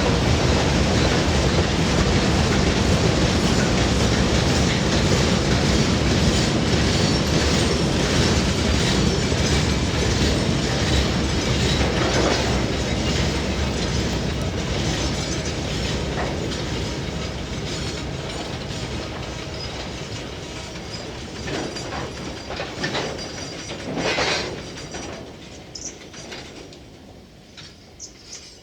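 Freight wagons rolling past over the rail joints with a steady clickety-clack and rumble that fades away as the train recedes. A few sharper clanks or squeals stand out in the second half.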